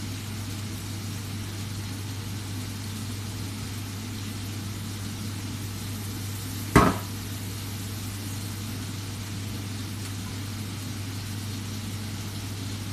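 Chicken frying in a pan with a steady sizzle over a low, constant hum. A single sharp knock about seven seconds in is the loudest sound.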